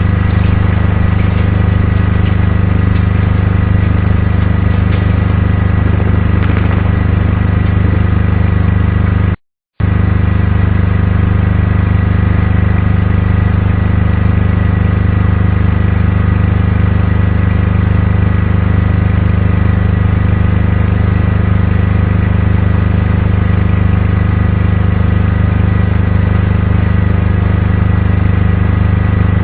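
A loud, steady mechanical hum like an engine idling, unchanging in pitch, with a brief dropout about nine and a half seconds in.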